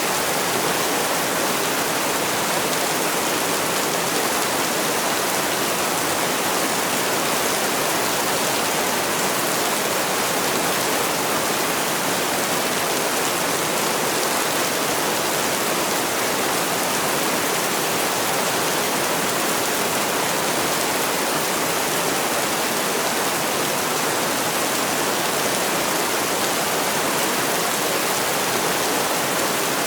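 Heavy rain falling steadily: an even, unbroken hiss with no separate drops, thunder or other events standing out.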